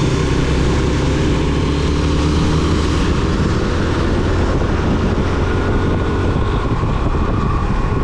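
Motorcycle engine running on the road with heavy wind rushing over the microphone, loud and steady.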